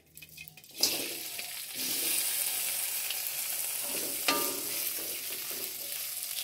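Boiled sea snail and crab pieces tipped into a little hot oil in a metal wok: a sudden loud sizzle about a second in, then steady frying and spattering, with one clink about four seconds in.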